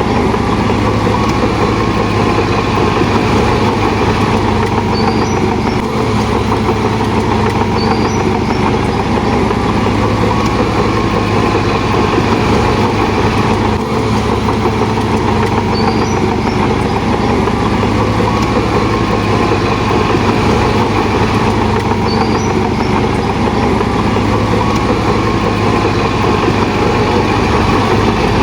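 Heavy diesel earthmoving machinery running steadily, a constant engine drone with no breaks or rev changes.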